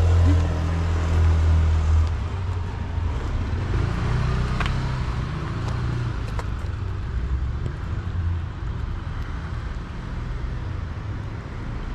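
Motor-vehicle engine rumble close by for about the first two seconds, then settling into steady road-traffic noise.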